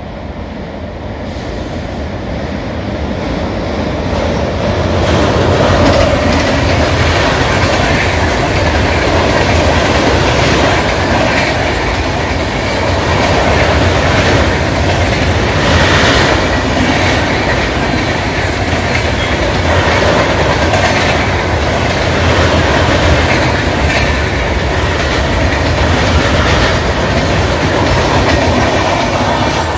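Indian Railways passenger coaches rolling past close by, wheels beating a steady clickety-clack over the rail joints. The sound grows over the first five seconds or so as the train comes near, then holds loud and steady while the coaches go by.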